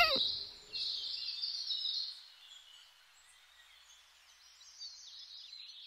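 Faint birdsong: high chirps, clearest in the first two seconds, dying away and then returning faintly near the end.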